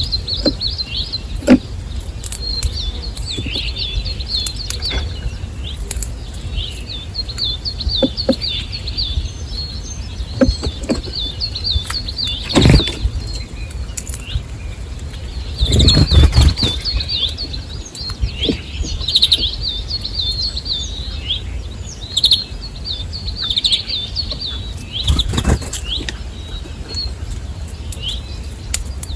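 Small birds chirping almost nonstop at a feeder, with three loud bursts of wing flapping as birds take off or land, the longest about halfway through.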